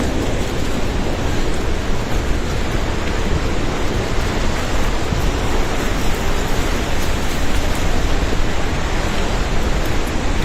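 Steady, loud rush of a river in flood, its water tearing past in an unbroken roar of noise.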